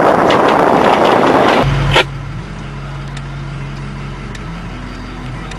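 Loud rushing noise of a railway snow plow pushing through deep snow. It cuts off abruptly with a click about two seconds in, leaving a steady low engine hum.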